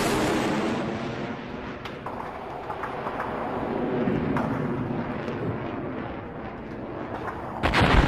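Battle sound effects: a loud blast dying away at the start, then a steady rumble of distant gunfire with scattered sharp shots, and a sudden loud explosion near the end.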